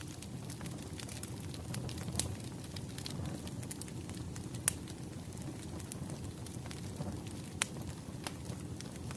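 Firewood burning: a low, steady rumble of flames with scattered sharp crackles and pops from the wood, the loudest about four and a half and seven and a half seconds in.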